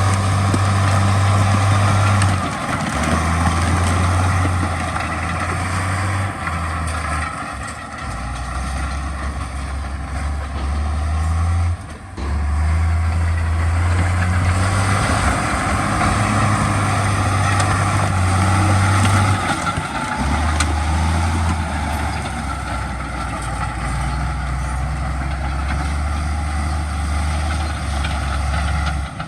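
Heavy diesel engine of earthmoving machinery running under changing load, its low pitch stepping up and down every few seconds, with a brief drop in level about twelve seconds in.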